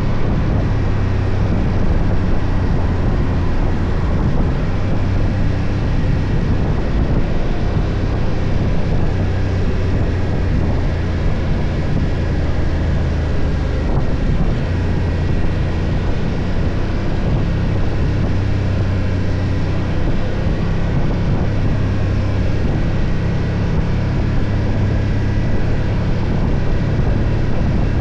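BMW F 800 GS parallel-twin engine running at a steady cruise, its low tone holding nearly constant, under a steady rush of wind and road noise.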